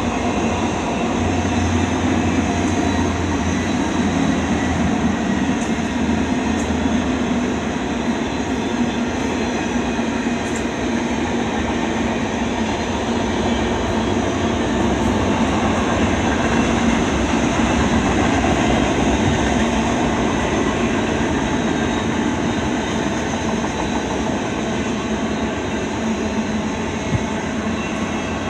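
Eastbound intermodal freight train rolling past at steady speed: a continuous rumble and rattle of wheels on rail, with a few faint clicks.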